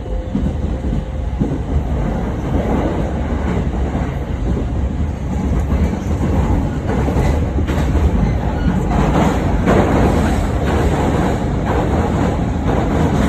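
Tokyo commuter train running on the rails, heard from inside the carriage: a steady rumble of wheels and running gear, with repeated clickety-clack over rail joints that grows louder through the second half.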